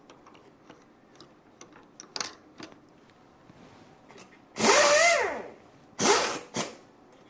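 A few light clicks, then short bursts of an electric power-tool motor. The first burst, past the middle, rises and then falls in pitch; two shorter bursts follow near the end.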